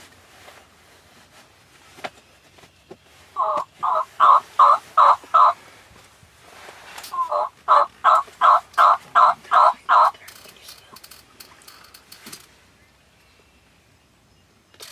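Turkey yelping in two series: about six evenly paced yelps, a short pause, then about nine more, roughly three a second.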